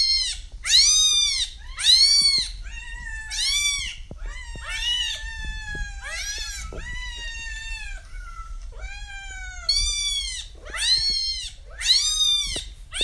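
A cat meowing over and over, a dozen or so meows, each rising and then falling in pitch, some short and some long and drawn out.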